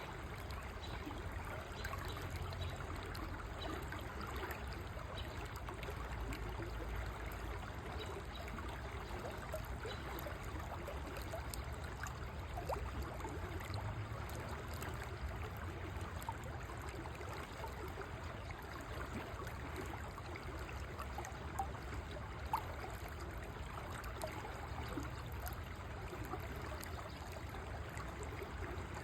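River water flowing steadily over stones, a continuous babbling rush. Two brief louder ticks come about three-quarters of the way through.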